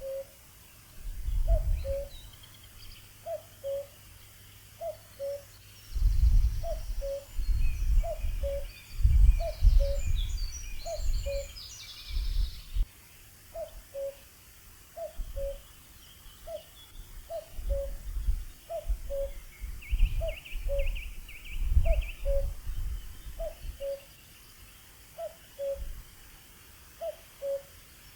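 Common cuckoo calling its two-note falling "cuck-oo" over and over, roughly once a second, with other small birds twittering faintly in the background. Bursts of low rumble come and go, loudest in the middle stretch.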